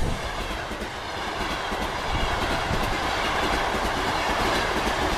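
A train running along the track: a steady rushing noise of wheels on the rails.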